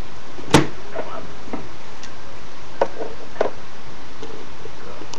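A handful of light knocks and taps from small plastic toy figures being handled and set down on a hard surface, the loudest about half a second in, over a steady background hiss.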